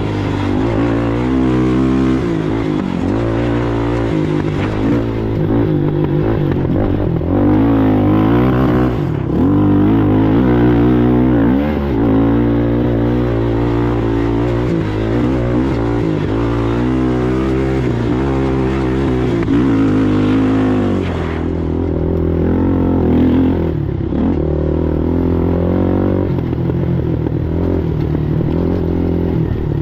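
ATV engine running hard under race load, its revs rising and falling continuously. About two-thirds of the way through, the engine note drops lower and steadies.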